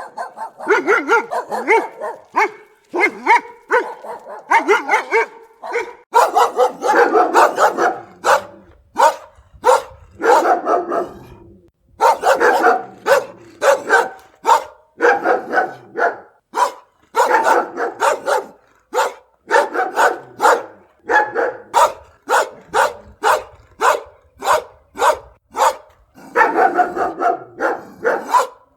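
Dog barking over and over in quick runs of short barks, with brief pauses between the runs.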